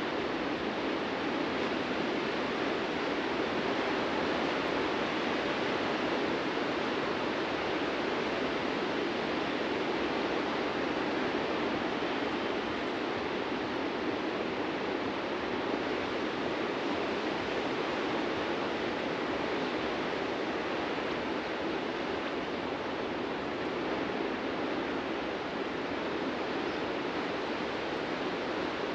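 Ocean surf breaking on a beach, heard as a continuous, even wash with no separate wave crashes standing out.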